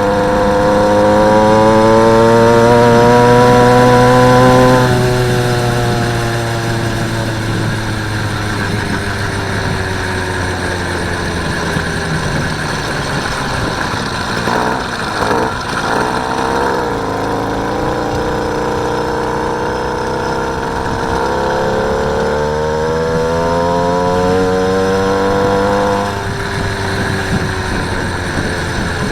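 Small engine of a motorised bicycle running under way, its pitch climbing for the first few seconds, easing off, then climbing again about three-quarters of the way through before dropping back.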